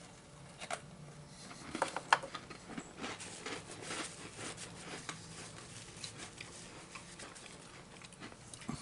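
Faint, scattered small clicks and crunches of a person handling and eating a sugar cookie.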